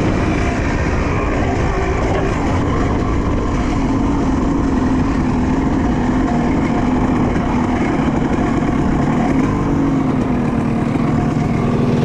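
Honda CR250 two-stroke dirt bike engine running at a fairly steady pitch, easing down slightly near the end, with a rough noise of riding underneath.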